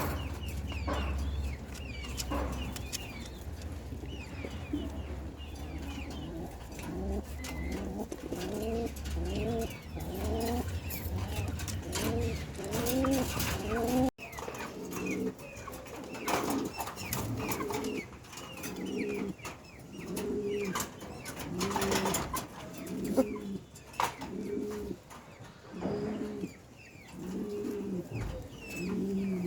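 Pigeons cooing over and over in a loft, each coo about a second long and repeating at a steady pace, with faint chirping from smaller birds in the first half.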